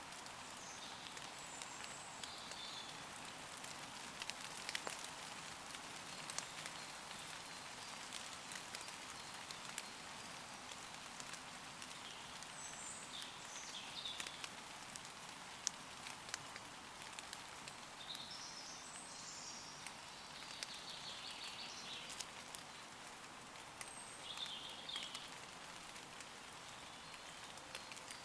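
Gentle rain falling on leaves, a steady hiss with scattered individual drop ticks. Faint, distant bird calls come through a few times over it.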